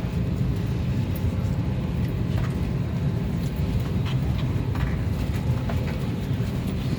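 Steady low hum of an airliner cabin on the ground during boarding, the air-conditioning and engine-off noise of the parked Airbus, with a few faint knocks scattered through it.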